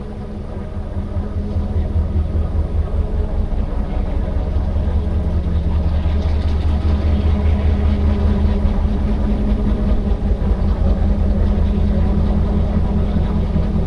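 A large vehicle's engine or motor running with a low, steady hum that grows louder over the first two seconds and then holds.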